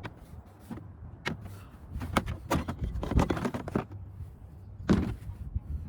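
Hands working on the RC rally car's body: a series of clicks and plastic knocks, busiest in the middle with a louder knock about five seconds in, over a low wind rumble on the microphone.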